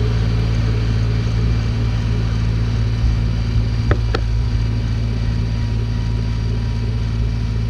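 Snowblower engine running steadily at a constant speed, with two brief sharp clicks about four seconds in.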